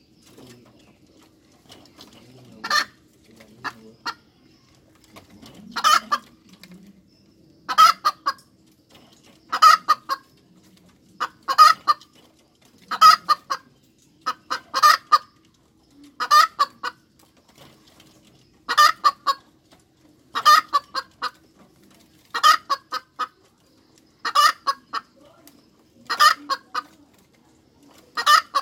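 Domestic hen cackling: short clustered bursts of a few sharp notes, repeating about every two seconds from about three seconds in.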